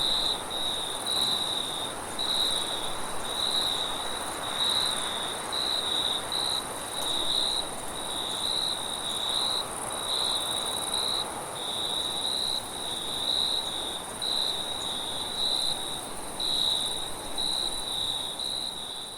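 Crickets chirping in a steady run of short repeated pulses at one pitch, with a continuous higher-pitched insect trill above them. A soft hiss of wind runs underneath.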